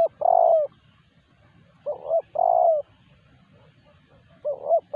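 Spotted dove (terkukur) cooing: three calls, each two short quick notes followed by a longer note that falls at the end, repeated about every two and a half seconds.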